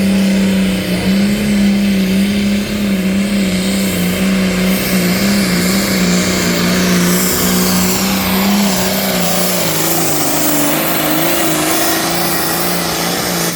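Farm tractor engine held at full throttle under load while pulling the sled, a loud steady drone. Its pitch wavers and sags slightly in the last few seconds as the load builds.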